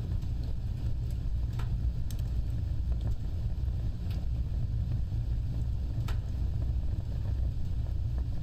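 Wood fire burning, a steady low rumble of flames with a few sharp crackles and pops scattered a second or two apart.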